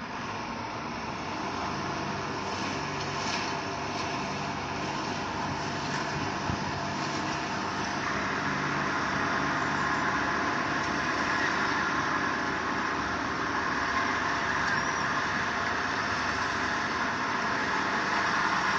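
Motor vehicle engine running steadily under a broad hiss that grows louder about eight seconds in.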